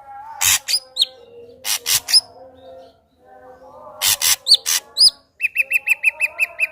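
Ashy drongo singing: harsh rasping notes mixed with clear upslurred whistles, ending in a fast run of short ringing notes, about eight a second.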